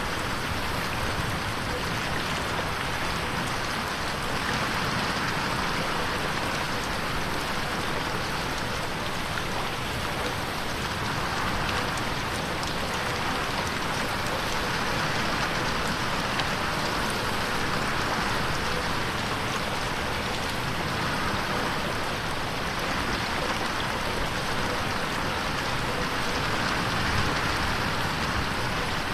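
Steady rain falling against a window pane, a dense, even patter with no thunder.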